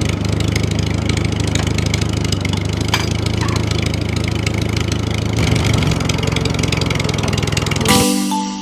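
A motor running steadily with a low drone. Near the end it cuts off and bright chiming music notes begin.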